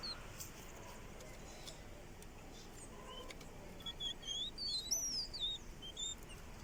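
Caged songbird singing in short high chirps and twittering whistles, scattered at first, then a quick run of notes from a little past halfway that is the loudest part.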